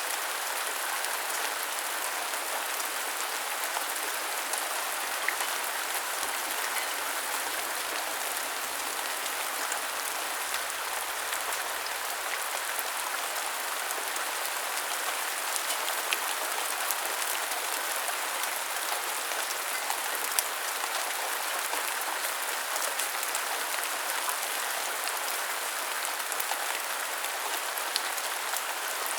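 Steady rain falling on hard surfaces, an even hiss with scattered individual drop ticks.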